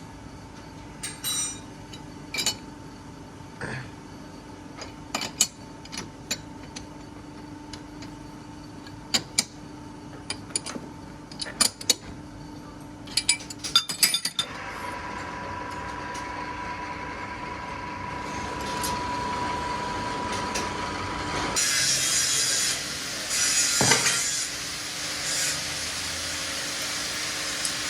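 Metal tools clinking against steel parts over a steady machine hum. About halfway through, a metal-cutting machine starts a steady cut with a held whine, and a few seconds later it turns louder and harsher.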